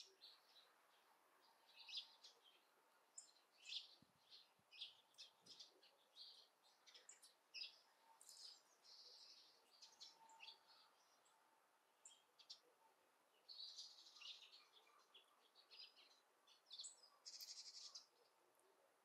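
Faint birdsong: small birds giving short, high chirps at irregular intervals.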